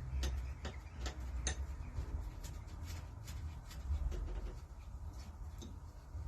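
Irregular light metallic clicks and taps of hand tools being worked on the engine, over a low rumble.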